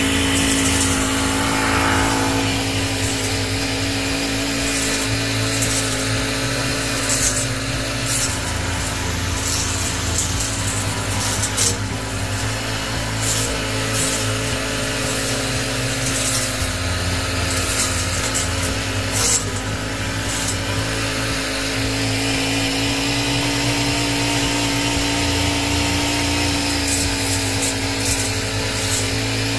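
Motorized garden trimmer running steadily as it cuts back a flower bed's plants, with a few sharp snaps as the blades catch thicker stems.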